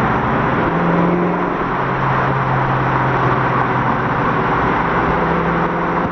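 Car engine running steadily over road and traffic noise; its low drone shifts slightly in pitch a couple of times.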